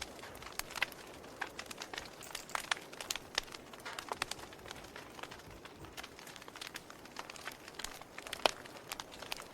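Wood fire crackling: irregular sharp pops and snaps from the burning logs over a low steady hiss, with a louder pop about eight and a half seconds in.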